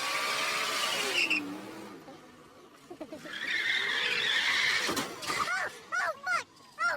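Car tyres skidding on the road, with a single sharp bang about five seconds in.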